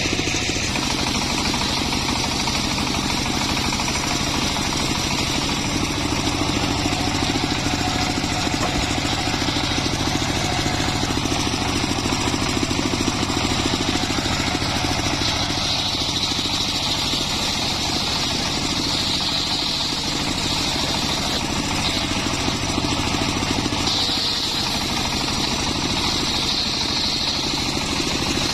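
Home-built circular sawmill running steadily, its engine droning with a higher whine that comes and goes in the second half.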